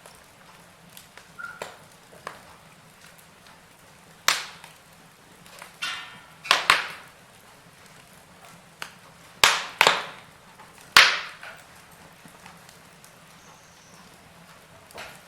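Wood fire burning in a fireplace: a faint steady hiss broken by a few sharp crackles and pops, several of them loud and grouped in the middle.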